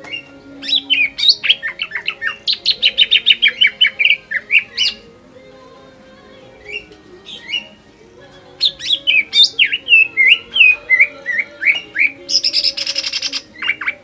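Cucak ijo (green leafbird) singing hard in two fast runs of sharp, sweeping whistled notes, with a pause of a few seconds between. The second run ends in a harsh buzzing rasp, then two more notes. It is the excited, full-repertoire song that keepers play to provoke other leafbirds into singing.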